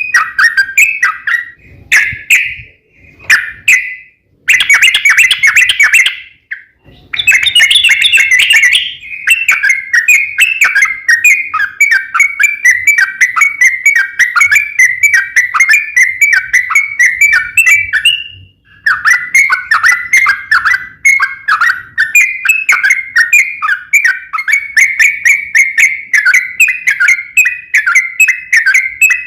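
Yellow-vented bulbul (trucuk) singing: long, fast runs of chattering whistled notes, broken by a few short pauses.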